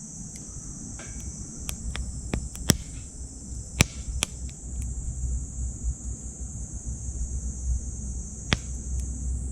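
Wood fire burning in a small titanium wood stove, crackling with sharp pops every second or so, the loudest about three, four and eight and a half seconds in. Insects trill steadily and high behind it, with a low rumble.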